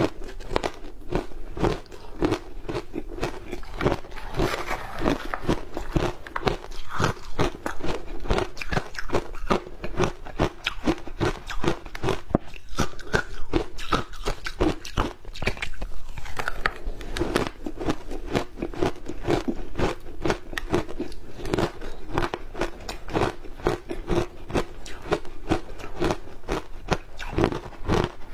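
Close-up crunching of ice coated in matcha powder being bitten and chewed, a rapid, continuous stream of crisp cracks and crunches.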